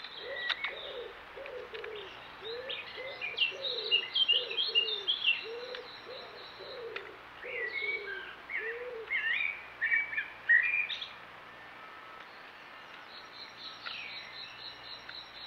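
Garden birds singing: bursts of high, warbling song phrases over a run of low, evenly repeated notes that stop about two-thirds of the way through. Near the end a quick series of high ticking notes.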